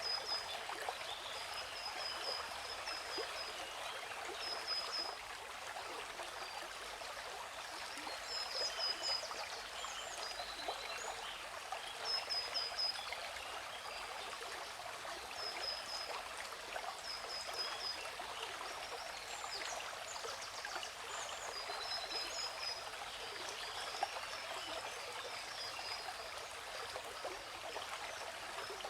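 Steady rush of a waterfall, with birds chirping over it in short runs of quick, high, repeated notes every few seconds.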